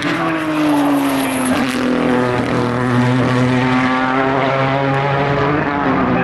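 Endurance race car engines running trackside, several droning at once at different pitches. One engine's note falls over the first couple of seconds, then holds steady and climbs again near the end.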